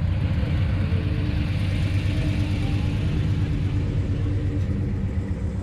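A car engine running close by with a steady, low, pulsing rumble.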